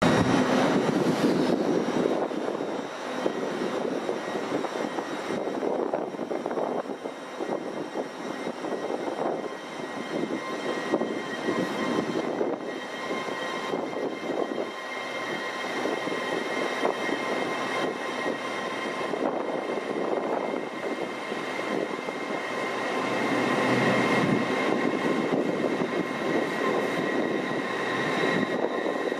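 A train moving through the station: a steady heavy rumble with thin, high, steady whining tones that grow stronger near the end.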